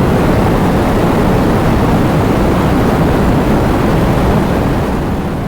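Thunderstorm sound effect: heavy, steady rain over a continuous low rumble of thunder, beginning to fade out near the end.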